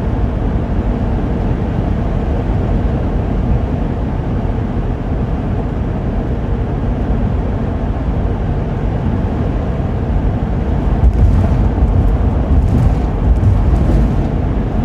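Steady road and engine rumble inside the cab of a Class C motorhome cruising on the highway. A few brief knocks come about eleven to fourteen seconds in.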